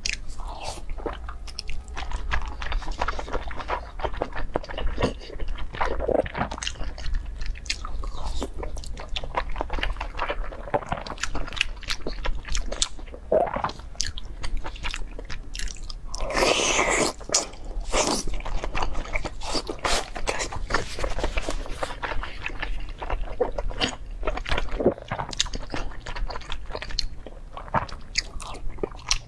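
Close-miked chewing and biting of a braised pork skin roll: soft, wet chewing with frequent small clicks and smacks, and a louder, noisier wet stretch a little past halfway.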